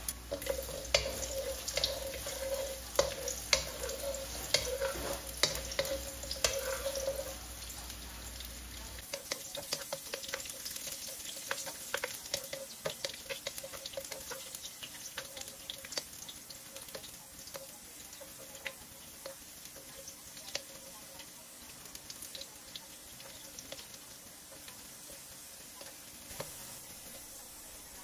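Carrot chunks frying in shallow oil in a nonstick wok, sizzling and crackling. The spitting is busiest for the first several seconds, then settles to a softer sizzle.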